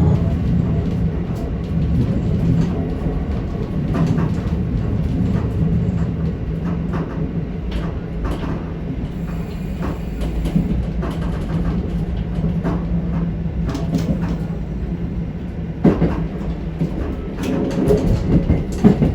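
Diesel railcar running along the line: a steady low engine drone that eases off about halfway through, with wheels knocking over rail joints, several sharp knocks near the end.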